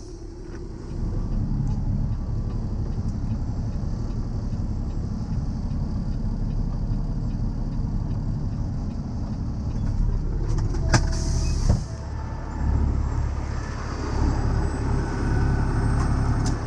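Heavy truck diesel engine running steadily, with a short hiss and a couple of sharp clicks about eleven seconds in.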